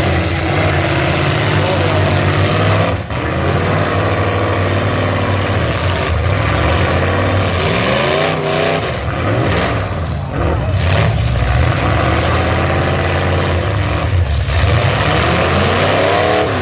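Full-size pickup truck engines running hard, revving up and down again and again as the trucks compete on the track.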